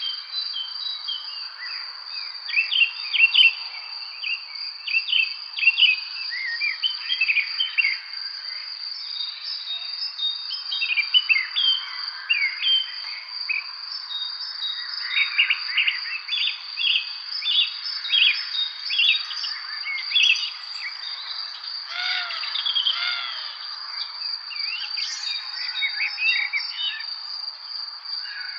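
Several songbirds chirping in quick, short notes, overlapping one another, over an unbroken high-pitched insect drone.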